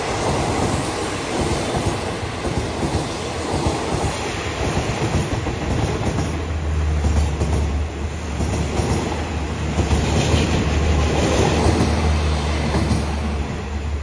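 Passenger coaches of a diesel-hauled express train rolling past at close range, their wheels clattering over the rail joints in a steady loud rush. A steady low hum joins about six seconds in.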